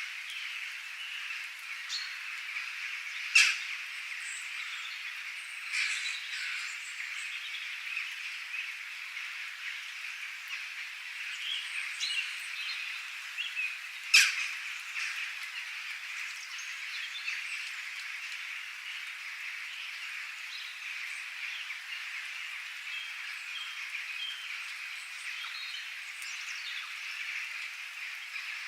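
Outdoor chorus of birds chirping over a steady dense background of high calls. Two loud, sharp calls stand out, one about three seconds in and another about fourteen seconds in.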